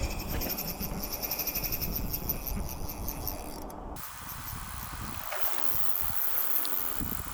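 River water rushing, with a rhythmic high chirping of insects over it. The sound changes abruptly about four seconds in, becoming quieter in the low range while faint high ticks continue.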